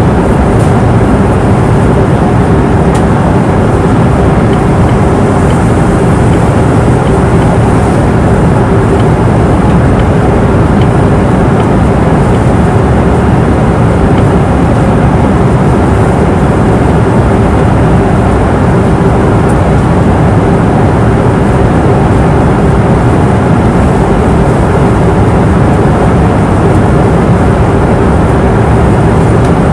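Airliner cabin noise in flight: a steady, loud rush of engine and airflow noise with a constant hum underneath.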